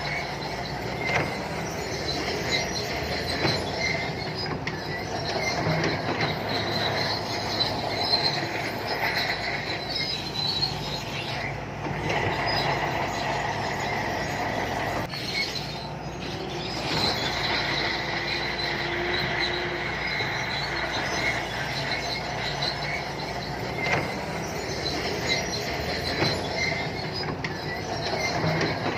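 Shantui crawler bulldozer at work: diesel engine running under the steady metallic squeal and clatter of its steel tracks.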